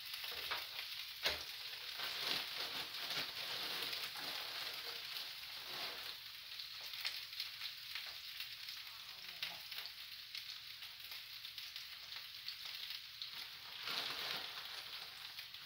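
Browned potato hash and sausages sizzling steadily in frying pans on switched-off but still-hot stove burners, with light rustling and clicks as shredded cheese is shaken from a plastic bag over the hash.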